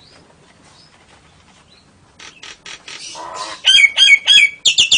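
Cage birds calling: a couple of seconds of faint clicks, then harsh squawks, a few loud whistled notes, and near the end a fast, steady chatter of high notes repeated several times a second.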